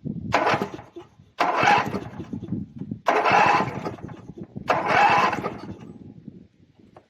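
Twin-cylinder Briggs & Stratton Vanguard 14 HP mower engine cranked on its electric starter in four short bursts of about a second each, each cutting off without the engine settling into a run. It is a first start attempt after fitting a cylinder head from a 16 HP Vanguard.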